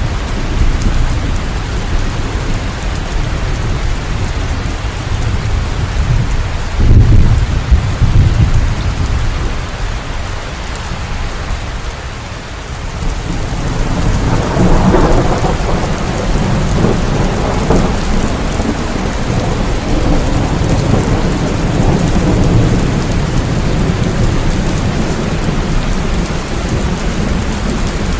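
Steady rain with rolling thunder: a low rumble about seven seconds in, and a longer, louder roll of thunder starting about halfway through.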